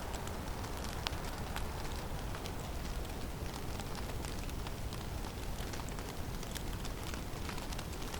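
Snowstorm ambience in a forest: a steady low rumble of wind with a constant haze of noise, dotted with light, irregular ticks and patters of falling snow landing on surfaces.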